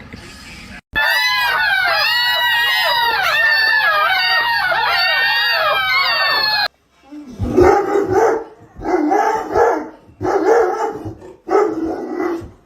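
Several dogs howling together, many wavering pitches overlapping for about six seconds. Then, after a cut, a dog gives a run of loud barking calls in five bursts, roughly one every second and a half.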